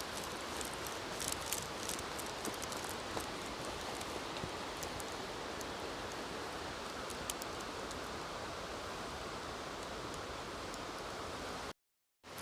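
Wood campfire crackling: scattered sharp pops and ticks over a steady hiss, the pops busiest in the first few seconds. The sound cuts out briefly near the end.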